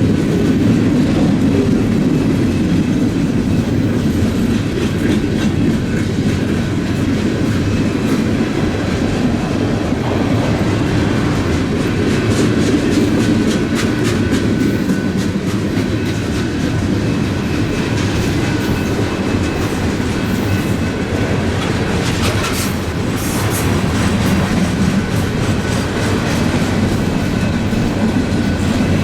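A slow-moving BNSF freight train rolling past close by: a steady rumble of wheels on rail, with bursts of clicking as the wheels pass over rail joints.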